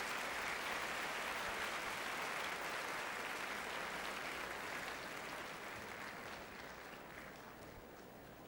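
Concert-hall audience applauding, the applause gradually fading away.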